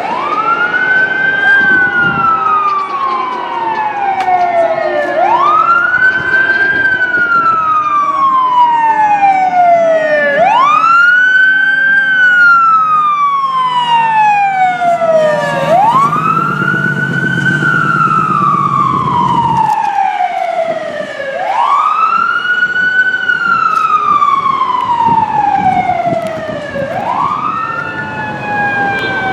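Fire engine and rescue ambulance sirens wailing. The loudest siren sweeps up quickly and falls slowly, one cycle about every five seconds, with a second siren fainter beneath it. A low rumble swells up midway through.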